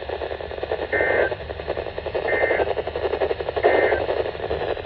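NOAA Weather Radio EAS end-of-message signal: three short, identical bursts of warbling digital data tones about a second and a half apart, marking the end of the alert. A steady hiss of radio static runs under them.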